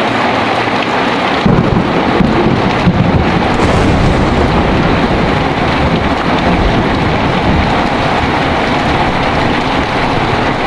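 Heavy rain pouring steadily, with a low roll of thunder that swells about a second and a half in and keeps rumbling under the rain.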